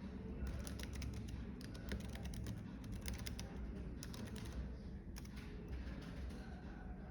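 Computer keyboard typing in quick bursts of keystrokes, pausing briefly in between, over a steady low cafe rumble.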